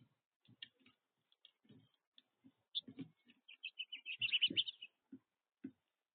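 Finches chirping, with short scattered calls and a quick twittering run of notes about four seconds in, over soft low knocks and ticks.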